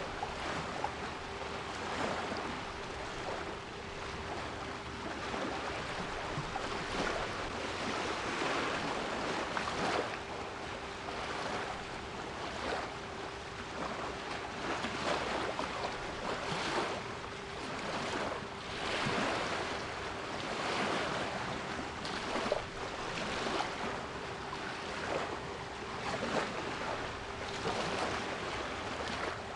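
Sea waves washing in and out, swelling every few seconds, with a steady 396 Hz pure tone held underneath.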